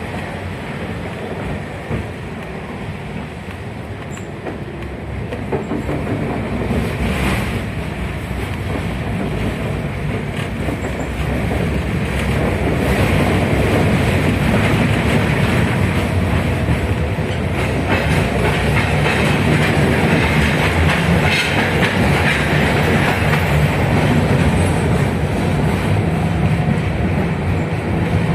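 A 71-619KT tramcar running along the rails, heard from inside the car, with wheel and rail clatter. It grows louder about twelve seconds in.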